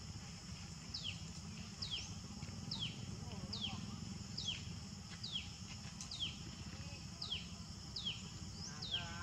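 A bird repeating one short downward-sliding whistle note about once a second, over a steady low background rumble.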